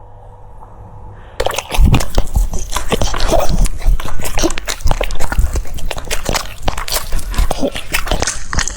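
French Bulldog chewing crunchy food, rapid wet crunches and smacks that start about a second and a half in after a brief quiet stretch.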